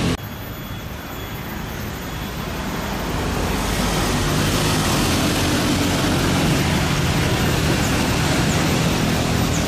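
Steady engine and airflow noise inside a private jet's cockpit, a broad hiss over a low hum that grows louder over the first few seconds and then holds.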